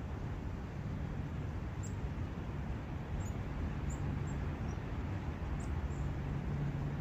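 Countryside forest ambience by a brook: a steady low rushing background with short, high-pitched bird chirps scattered through, about eight of them.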